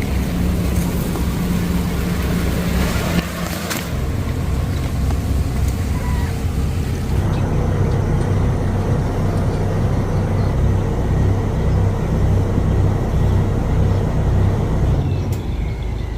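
Boat engine running steadily with a low, even hum, with a couple of brief knocks about three seconds in.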